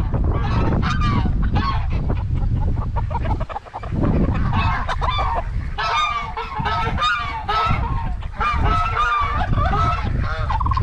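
Domestic geese honking repeatedly, several calls overlapping, growing busier about halfway through, over a steady low rumble of wind buffeting the microphone.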